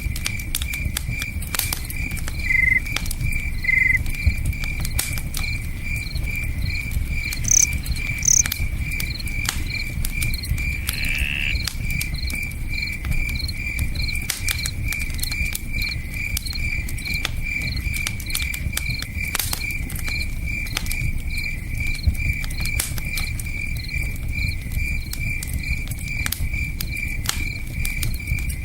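Cricket chirping steadily, about twice a second, over the sharp pops and crackle of a campfire and a low rush of river water.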